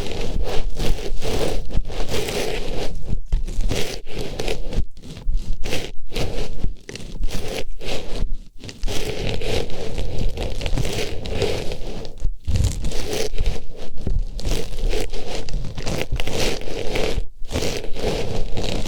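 An artificial flower pushed and rubbed inside a dummy-head microphone's ear, giving a loud, close rustling and scratching with a few short breaks.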